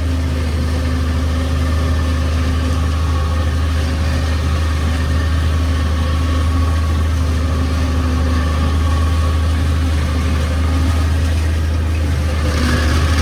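A farm vehicle's engine running steadily, an even low drone with no change in pitch.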